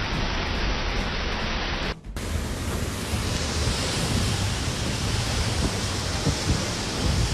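Strong typhoon wind blowing as a steady, loud rush of noise, with gusts buffeting the microphone. The sound drops out briefly about two seconds in and comes back as a fuller rush.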